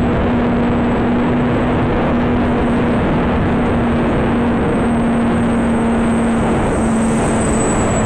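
Steady rush of strong wind over the microphone, with the constant hum of small brushless electric motors driving a twin-motor RC aircraft in flight.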